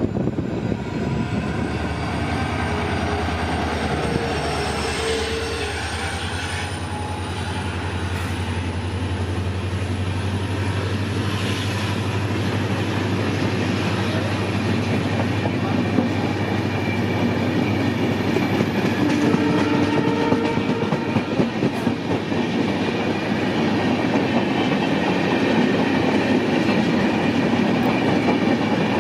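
A train running past: continuous rumble and clatter of wheels on rails, with a low steady locomotive drone over the first half. Two short tones, one about 5 seconds in and one about 20 seconds in, fit horn notes.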